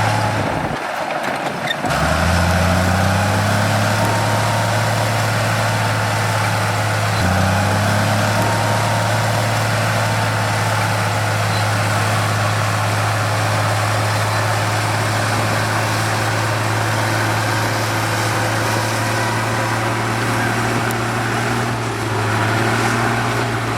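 Heavy diesel engine of a construction machine running. It drops off briefly about a second in, then revs up in rising steps around two and seven seconds and holds a steady pitch.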